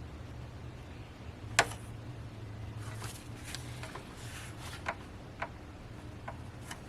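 Handling noises: a sharp click about one and a half seconds in, then several lighter clicks and knocks, over a low steady hum.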